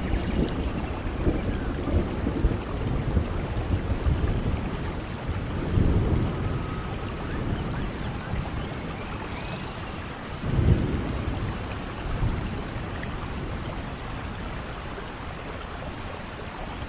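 Steady rain with low rolls of thunder, one about six seconds in and a louder one about ten seconds in.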